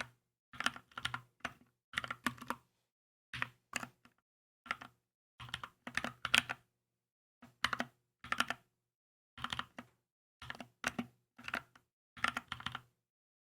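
Keychron K2 mechanical keyboard being typed on in short bursts of quick keystrokes, with brief pauses between bursts. The typing stops shortly before the end.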